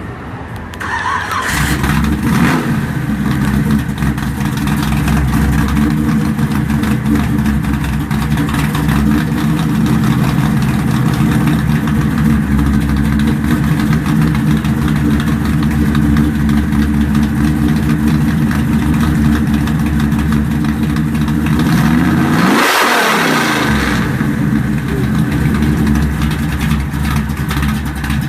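A 1957 Chevy Bel Air gasser's engine starts up about a second in and settles into a loud, steady idle. Near the end there is one blip of the throttle, its pitch rising and falling back to idle.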